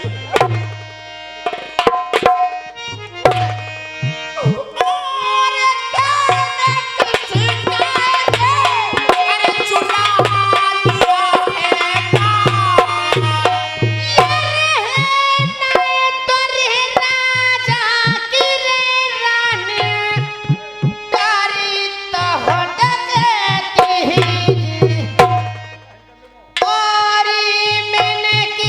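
Dhola folk music: a voice sings a gliding melodic line over held instrumental tones and a hand drum's steady low beats. The music drops out for about a second near the end, then resumes.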